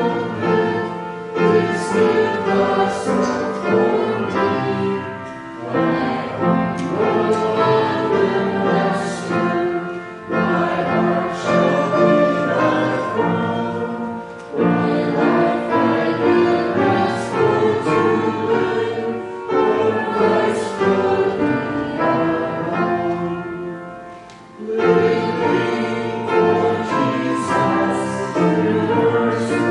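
A group of voices singing a hymn together with instrumental accompaniment, in long held phrases separated by short breaths.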